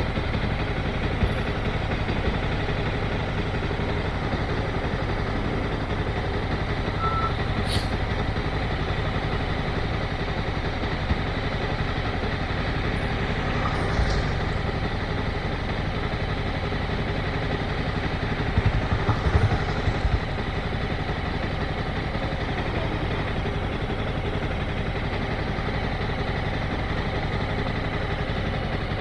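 Motorcycle engine running steadily at low speed. A cluster of short knocks comes about two-thirds of the way through.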